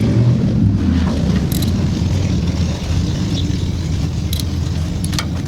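A steady low rumble runs through, with a few brief, light clicks of hand tools being handled during brake work: about one and a half seconds in, again near four and a half seconds, and twice near the end.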